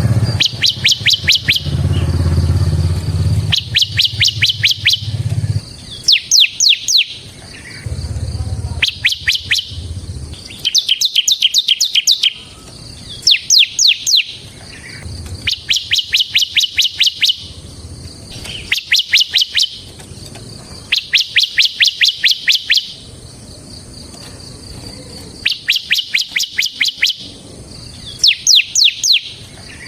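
Bar-winged prinia (ciblek semi) singing its fast rattling 'ngebren' song: repeated bursts of sharp high chirps, each one to two seconds long with short pauses between. A low hum runs underneath in the first few seconds and again briefly later.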